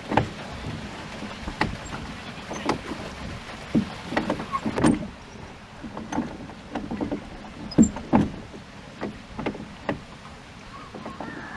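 Water slapping and splashing irregularly against the bow of a small pleasure boat as it moves across a pond, with short knocks over a steady wash of water.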